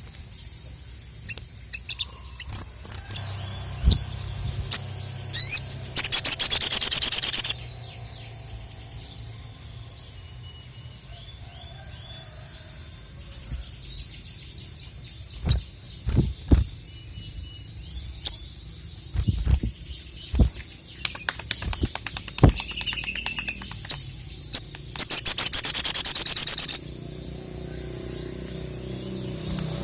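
Sogon (sogok ontong) bird calling with scattered sharp chirps and clicks. Two loud, rapid rattling trills of about a second and a half each come about six seconds in and again near the end.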